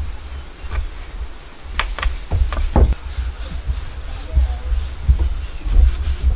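Wooden railing parts being worked by hand: a few sharp knocks about two seconds in, then a hissing rub repeated a few times a second, over a low rumble.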